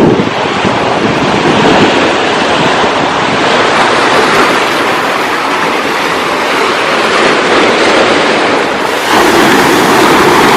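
Ocean surf washing on the shore with wind blowing over the microphone, a steady rush of noise that grows louder near the end.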